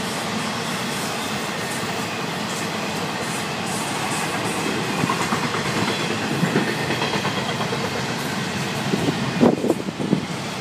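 Florida East Coast Railway freight train's cars rolling past: a steady rumble of wheels on rail with clatter, and a few sharp clanks near the end.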